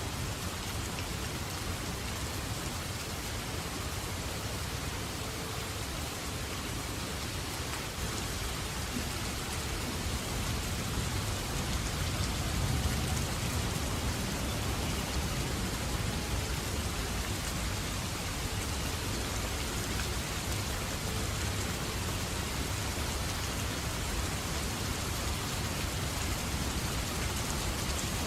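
Steady rain falling and pattering on surfaces, a dense even hiss, with a low rumble growing stronger about eight to ten seconds in.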